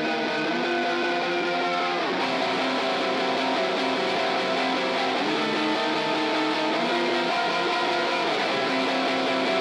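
Instrumental rock music: sustained, layered guitar chords that slide down in pitch about two seconds in and back up about five seconds in.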